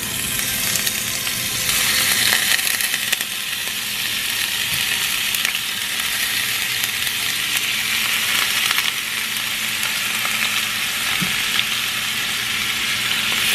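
Seasoned shrimp sizzling in hot oil in a skillet as they are tipped into the pan, the frying growing louder about two seconds in and then holding steady.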